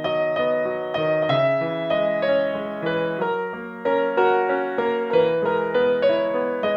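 Background piano music: a gentle melody of notes struck every fraction of a second, over held lower notes.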